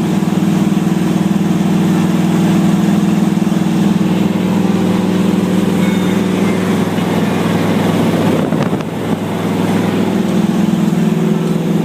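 Ford mud truck's 460 big-block V8 running steadily as the truck drives along the highway. The engine note dips briefly about eight and a half seconds in.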